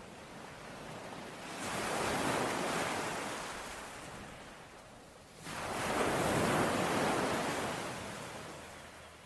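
Ocean waves breaking on a shore, two in turn: the first swells up about a second and a half in and slowly dies away, the second breaks suddenly about five and a half seconds in and washes out slowly.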